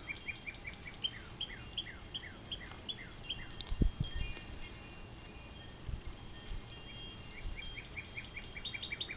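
Several songbirds singing at once, each repeating short high notes several times a second, some of them quick downward-slurred whistles. There is a single soft thump about four seconds in.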